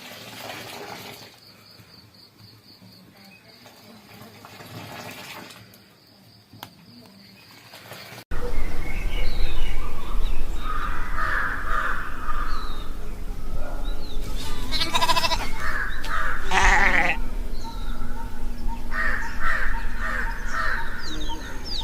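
Goats bleating several times over a steady low rumble, after a sudden cut from a quieter stretch.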